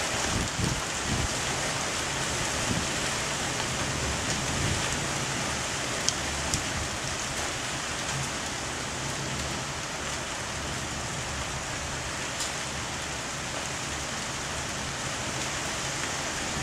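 Heavy thunderstorm rain falling steadily, with a couple of sharp ticks of drops striking something close by.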